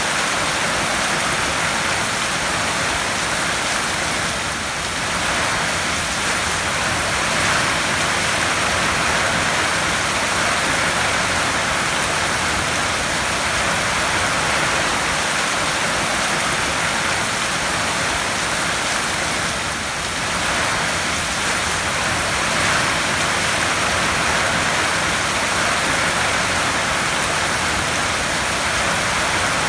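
Heavy rain falling on a tin roof: a steady, dense hiss that eases slightly twice.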